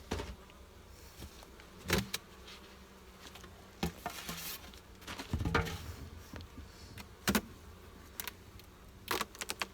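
Honeybees buzzing at an opened, crowded hive, broken by several sharp knocks and clicks as the wooden hive parts are handled.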